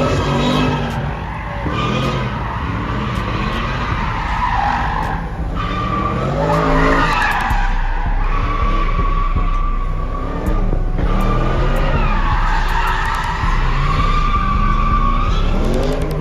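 Car tyres squealing continuously in long held screeches as a car does burnouts or donuts, with its engine revving up and down underneath.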